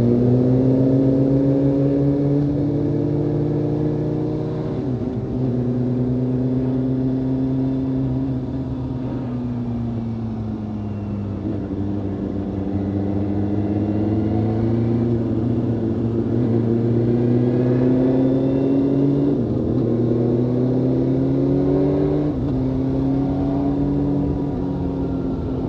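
Motorcycle engine under way, climbing in pitch through the revs and dropping back at each upshift several times, with a slower easing off and pull back up in between.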